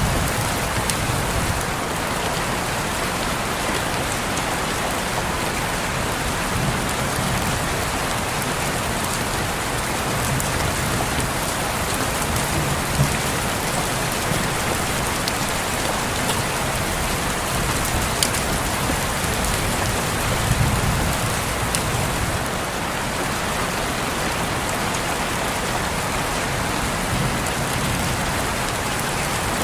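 Steady rain falling on window glass, an even hiss with scattered individual drop ticks. A soft low rumble swells a few times underneath.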